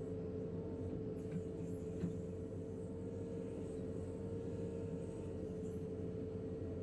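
JCB 3DX backhoe loader's diesel engine running steadily with a constant drone, with two light knocks between one and two seconds in.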